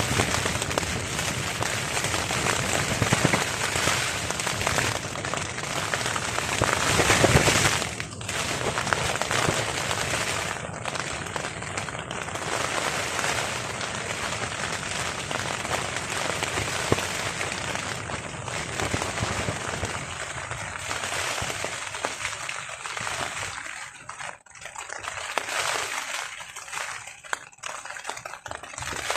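Rain falling on a tarp overhead in strong wind, a dense steady noise that swells louder about seven seconds in and eases into uneven lulls near the end.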